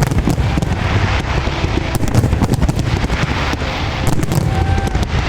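Fireworks display going off: a rapid, irregular run of bangs and crackles over a continuous low rumble.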